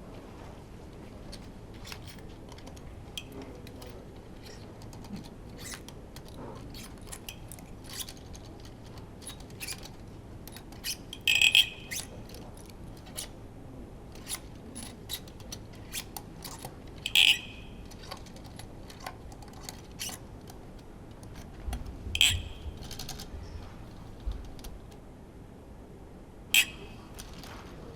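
Hand tools and metal parts clicking and clinking during the teardown of a Honda F1 engine. Many light, scattered clicks are broken by four louder, sharp metallic clinks that ring briefly: one near the middle, then three more toward the end.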